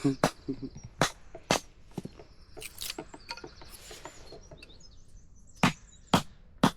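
A small hatchet-sized axe chopping firewood: a string of irregular sharp strikes on wood, with the loudest blows coming in a cluster near the end.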